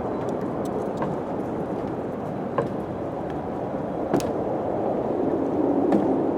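Steady wind rushing, swelling a little near the end, with a few sharp clicks, the strongest about four seconds in.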